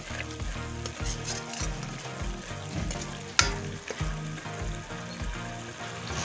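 Tomato-and-spice masala frying and sizzling in oil in a pan while a metal spoon stirs and scrapes it, with one sharp clink of the spoon against the pan about halfway through. The masala is well fried, at the stage where the oil separates.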